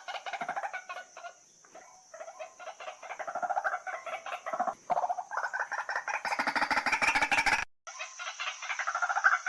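White-breasted waterhen calling: a fast, unbroken run of repeated croaking notes, over a steady high hiss. The calls ease off briefly near two seconds in, then cut out suddenly for a moment about three-quarters of the way through before carrying on.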